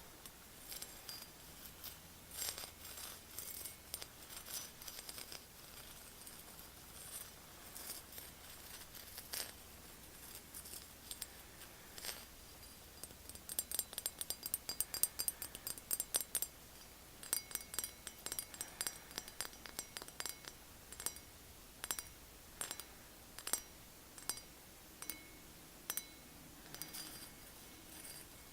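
Tapping and scratching on hard objects: loose runs of light, crisp taps, a quick flurry of rapid taps about halfway through, then single taps roughly one a second.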